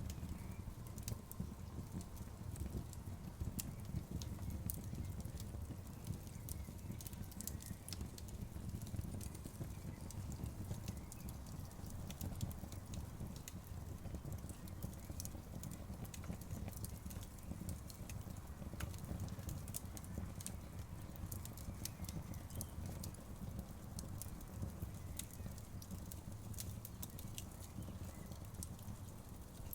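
Outdoor bonfire crackling, with frequent irregular sharp pops over a steady low rumble of the burning fire.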